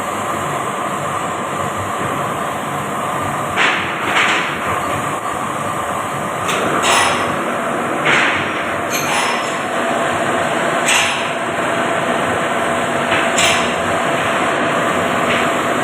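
A furnace running with a steady rushing noise, broken by about eight short, sharp crunching knocks at irregular intervals as the heated material is crunched.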